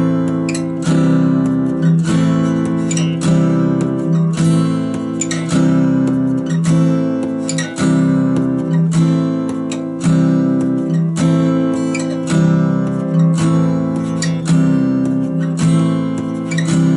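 Acoustic guitar strummed in a steady, even rhythm, changing back and forth between C major and A minor chords with two strums on each chord.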